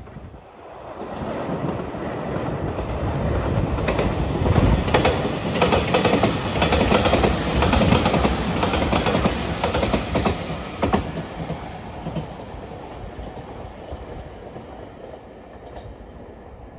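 An Anpanman-liveried JR Shikoku 8000-series electric limited express passing close by. It builds over a few seconds, is loudest in the middle with wheels clattering over rail joints, and fades away near the end.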